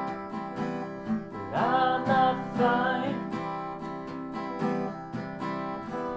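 Acoustic guitar strummed under a song, with a voice holding a few drawn-out notes from about a second and a half in. The strumming grows quieter toward the end as the song winds down.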